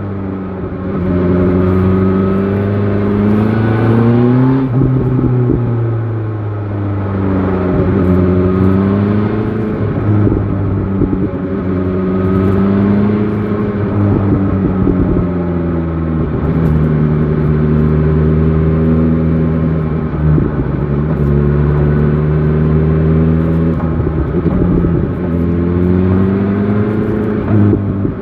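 BMW S1000 XR motorcycle engine under way, the revs climbing as it accelerates and dropping back several times as the throttle closes or gears change. There is a steadier cruising stretch about halfway through.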